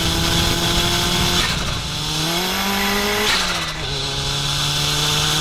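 Turbocharged 1.6-litre single-cam Honda D16 engine pulling hard under acceleration. Its note climbs, then falls at a gear change about a second and a half in, climbs again, and falls at a second change about three and a half seconds in.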